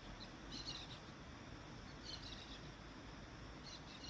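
Birds chirping faintly in three short bursts of high chirps.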